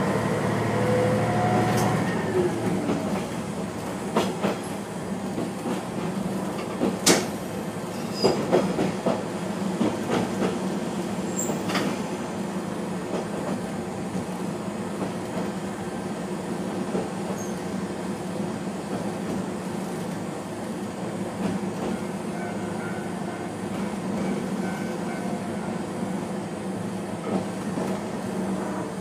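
Kishu Railway diesel railcar running along the track, heard from inside the cab: a steady low engine drone with a few sharp clacks from the wheels over rail joints. A higher whining note drops away about two seconds in.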